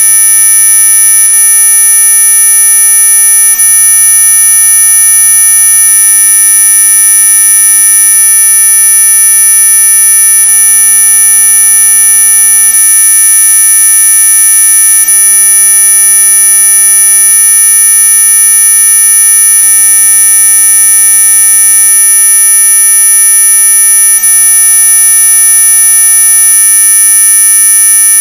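Synthetic anti-mosquito repellent tone: a loud, unchanging electronic whine made of several pure tones sounding together, the strongest very high-pitched near the top of hearing, with fainter lower tones beneath.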